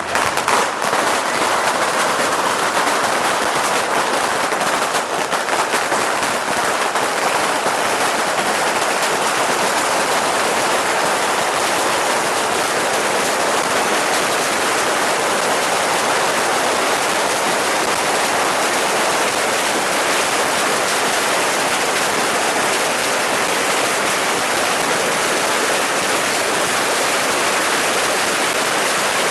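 A beehive rocket barrage: thousands of bottle rockets and firecrackers firing at once from a rocket fort, a dense, unbroken crackling and hissing. Separate sharp bangs stand out over the first few seconds, then everything merges into one steady wall of sound.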